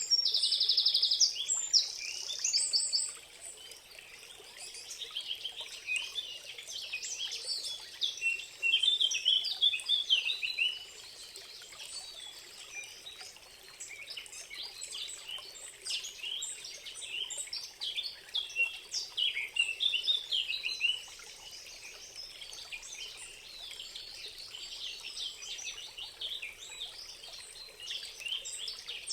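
Many birds chirping and singing at once, with a fast trill in the first few seconds and a loud run of calls around the middle, over a faint steady rushing noise.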